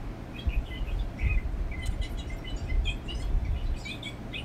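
Many quick, high chirps, like a small bird calling, repeating all through, over a low rumble with a few dull bumps.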